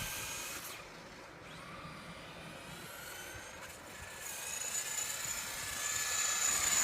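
Traxxas Slash RC truck's electric motor whining as it drives. The whine fades as it moves off and grows louder again from about four seconds in.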